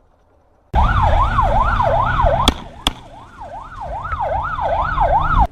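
Emergency vehicle siren in a fast up-and-down yelp, about three sweeps a second, over low vehicle rumble. It starts suddenly, has two sharp knocks close together near the middle, and cuts off abruptly.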